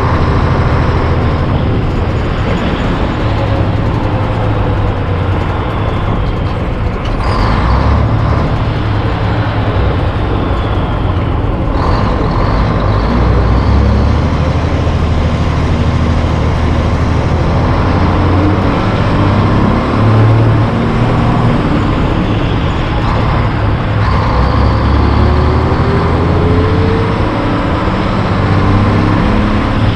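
Diesel truck running down the road: a steady, loud engine drone mixed with road and wind noise, its low pitch stepping a few times.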